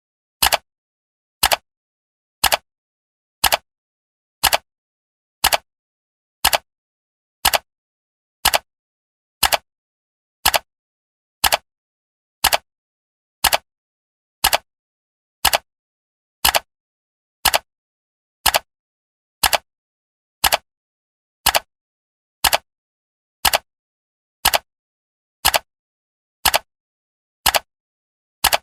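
Countdown timer's clock tick: one short, sharp tick every second, evenly paced, with silence in between.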